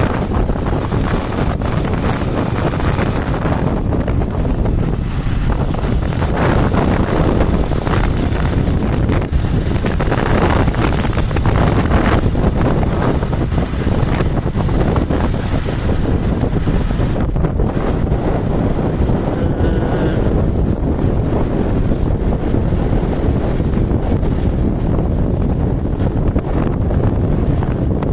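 Loud, steady wind rumble buffeting the microphone, as on a moving vehicle.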